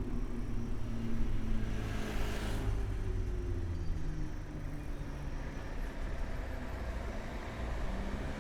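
City road traffic heard from a moving bicycle: vehicle engines running and passing with a steady low rumble, and a short hiss about two seconds in.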